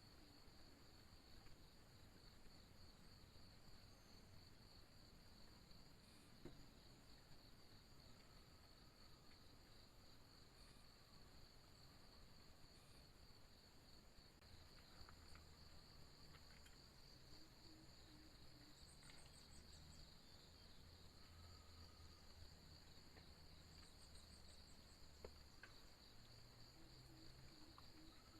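Faint, steady chorus of insects trilling at two high pitches, with a couple of brief, higher rising chirps partway through and again later.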